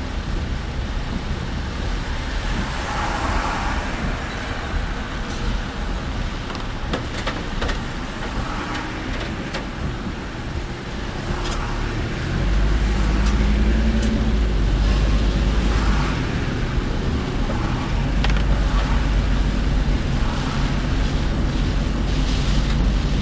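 Road and engine noise of a car driving, heard from inside the car: a steady rumble that grows deeper and louder about halfway through, with a faint swish repeating every two to three seconds.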